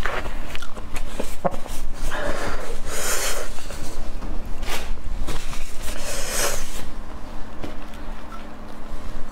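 Close-miked chewing: wet mouth clicks and squelches as a mouthful of food is chewed, with a few louder breathy rushes around two to three seconds in and again around six seconds.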